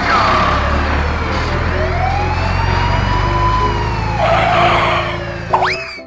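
Emergency vehicle siren wailing in a slow glide, falling and then rising and falling again, over a steady low engine rumble. A quick rising sweep comes near the end.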